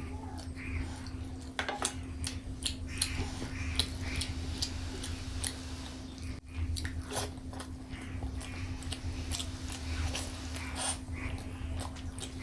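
A person chewing and biting food close to the microphone, a mouthful of veg biryani meal: irregular short clicking mouth sounds, over a steady low hum.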